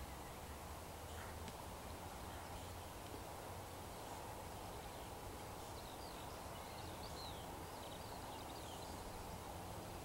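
Faint birdsong: small birds giving short, high chirps in the second half, over a steady rural background hiss.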